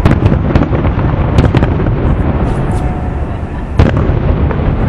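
Fireworks display shells bursting over a continuous low rumble. Several quick bangs come in the first half-second, a cluster of pops about a second and a half in, and one louder boom near the end.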